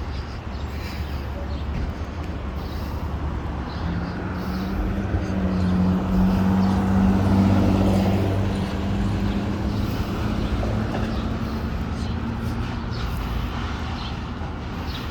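A large vehicle's engine running with a steady low hum over street traffic noise. The hum swells louder for a few seconds in the middle, then settles back.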